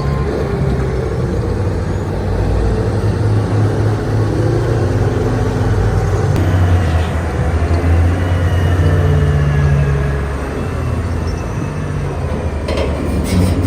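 Large wheel loader's diesel engine running heavily under load, with a faint high whine rising and falling mid-way and a few sharp knocks near the end.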